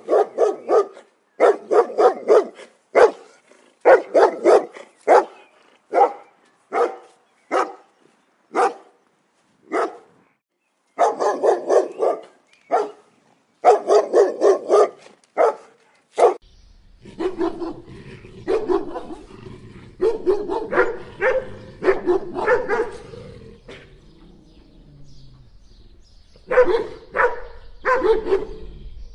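A dog barking repeatedly in quick runs of short, sharp barks with brief pauses between runs. About 16 seconds in, the barks come more spread out over a low, steady background rumble.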